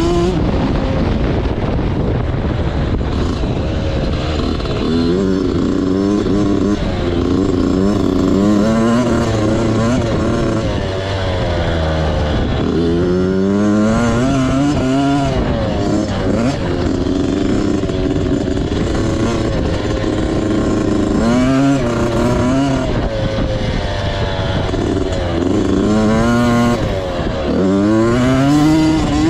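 Motocross bike engine revving hard, its pitch climbing and then dropping again and again as it accelerates, shifts and backs off.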